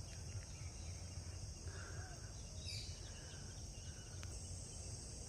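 A steady high-pitched insect chorus in the grove, with a low rumble underneath and a few faint bird chirps about two to three seconds in.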